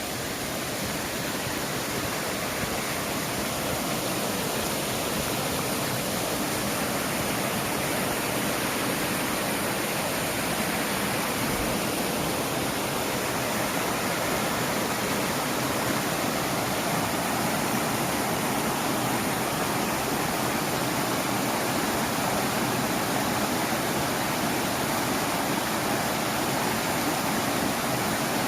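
Mountain valley stream after rain, a steady rush of water that grows a little louder over the first few seconds.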